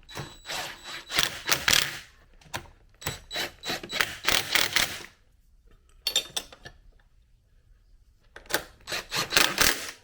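Hand tools clicking and clattering in quick runs, four bursts in all, as a motorcycle battery is hooked up.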